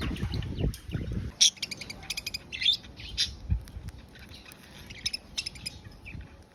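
Pet budgerigars chirping in quick, short high notes, busiest in the first half and thinning out toward the end, after some low handling noise in the first second or so.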